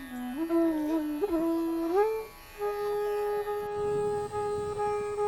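Background music: an Indian classical-style melody on a sitar-like string instrument, sliding and ornamenting between notes, then holding one long note from about two and a half seconds in.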